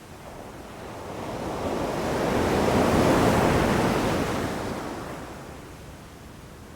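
Sea waves on a beach: one wave's rush swells up over about two seconds, peaks near the middle, and dies away, over a quieter steady wash of surf.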